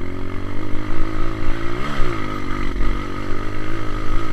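Honda CRF230 trail bike's single-cylinder four-stroke engine running, its revs rising briefly about two seconds in and falling back.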